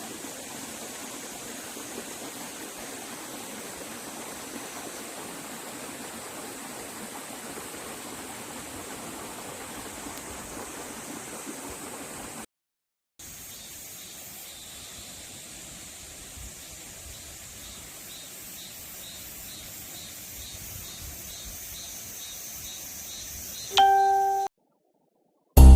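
Steady rush of flowing water from a forest stream, in two stretches with a short break between them. Near the end a single clear bell-like ding rings out and fades; it is the loudest sound here.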